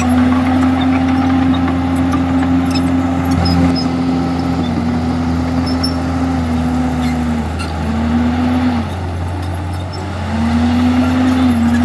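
Diesel engine of a Komatsu D51EX crawler bulldozer running steadily with a loud drone. Its note sags a little in pitch a few times, drops away a little after two thirds of the way through, and comes back up near the end.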